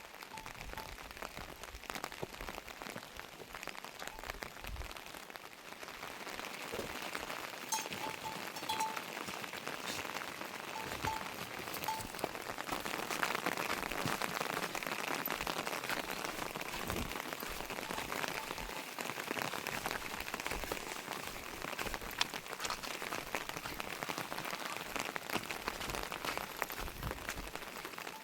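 Rain falling steadily, a dense patter of drops that grows heavier about halfway through.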